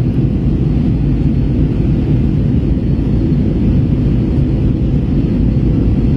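Steady low rumble of an Airbus A321 in flight, heard inside the passenger cabin.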